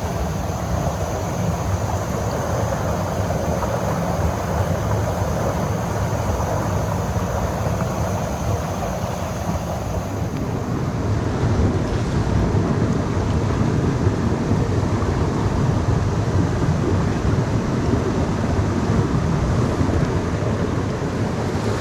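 Steady rushing of a mountain headwater stream over rocks, growing louder and deeper about halfway through.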